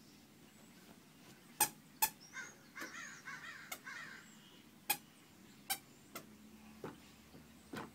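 Short, sharp squeaks, about seven of them at uneven intervals, with a warbling, wavering vocal sound between about two and four seconds in.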